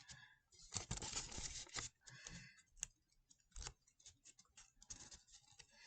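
Paper rustling and crinkling in bursts as a flap of a folded origami model is opened and pressed flat, with a few sharp crackles of creasing paper.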